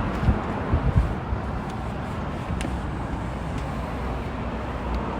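Steady low road-traffic rumble, with a few knocks in the first second and light clicks later on.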